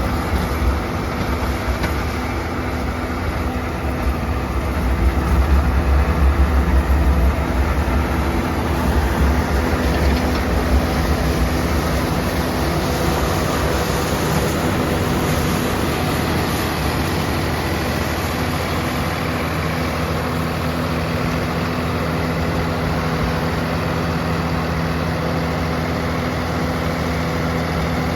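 Swaraj 969 FE tractor's diesel engine running steadily, heavier and louder for a few seconds near the start.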